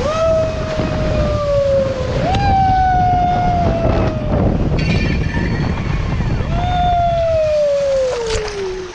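A rider screaming on a racing tube water slide: three long, drawn-out screams, each sliding slowly down in pitch, over the loud rush of water and air.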